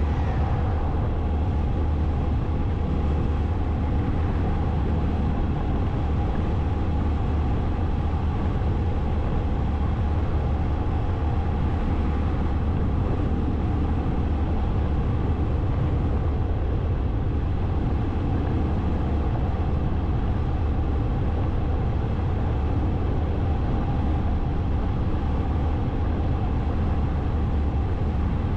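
Motorcycle on the move: steady, heavy wind rush on the microphone, with the engine and road noise running underneath.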